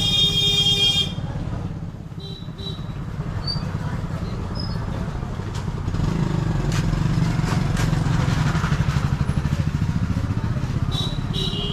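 Motorcycle engine running steadily while riding. A horn sounds for about a second at the start, and a short horn toot comes near the end.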